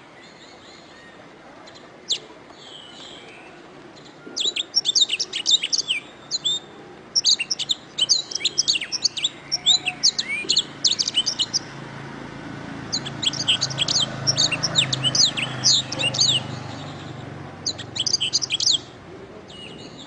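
Domestic canary singing: phrases of fast, high trills and chirps broken by short pauses, mostly silent for the first few seconds apart from a single chirp.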